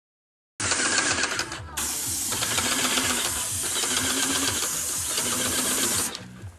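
Airless paint sprayer spraying through a 311 tip: a steady hiss, with the pump pulsing rapidly underneath. The sound cuts in abruptly about half a second in.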